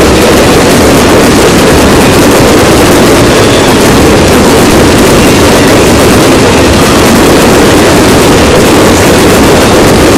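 Ground fireworks going off in a continuous crackling barrage, loud enough to overload the microphone into a steady, even roar with no separate bangs standing out.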